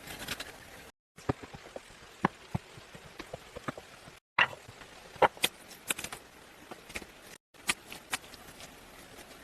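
Scattered sharp clicks and knocks over a faint steady background hiss, in short stretches broken by brief silences.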